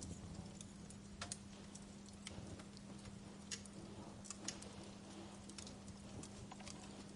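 Wood fire burning in a fireplace, crackling with irregular sharp pops and snaps over a low steady rumble and a faint steady hum.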